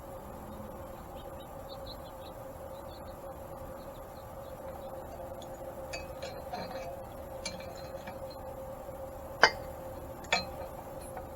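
Small metal clinks and clicks of tools and mill parts being handled, sparse at first and busier from about halfway, with two sharp clinks near the end. A steady hum runs underneath.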